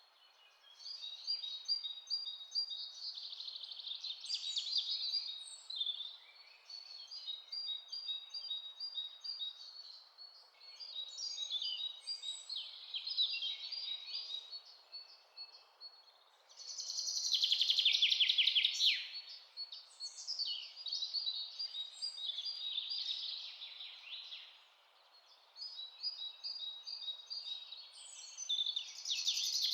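Songbirds singing and chirping, overlapping trills and quick runs of high notes with short lulls between phrases, and a louder rapid trill about two-thirds of the way through.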